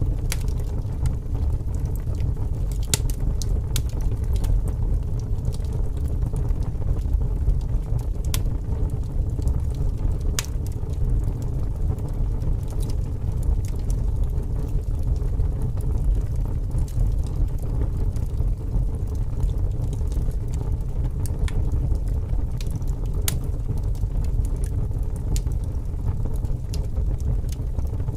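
Wood fire crackling, with scattered sharp pops through a steady low rumble of strong wind.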